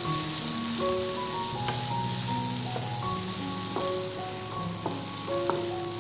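Chicken sausage slices sizzling in a nonstick frying pan as they are stirred with a wooden spatula, with a few light knocks of the spatula against the pan. Background music plays throughout.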